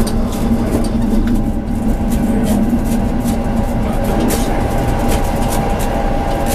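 Tram running on the rails, with a steady electric motor hum that fades about halfway through while a higher steady tone holds, and frequent short clicks and knocks of the wheels and car.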